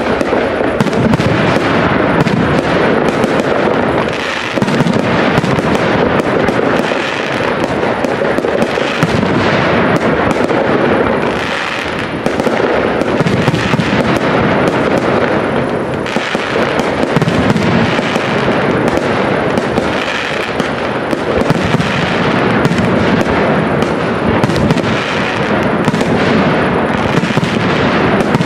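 Aerial firework shells bursting one after another in a dense, unbroken stream of bangs and crackling. Bangs from neighbouring displays along the river overlap with it.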